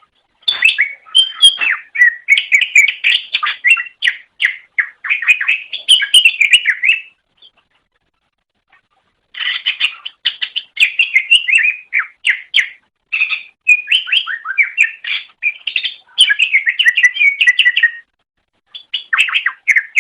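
Green leafbird (cucak ijo) singing a rapid, varied twittering song in long phrases. It breaks off for about two seconds roughly a third of the way in, then resumes, with another short pause near the end.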